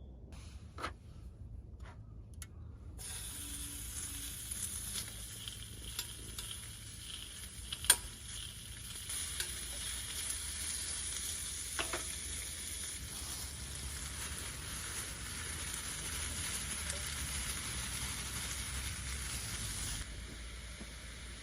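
Food sizzling in a hot pan, a steady hiss with a few sharp clicks, the loudest about eight seconds in. The sizzling starts abruptly about three seconds in and cuts off suddenly near the end.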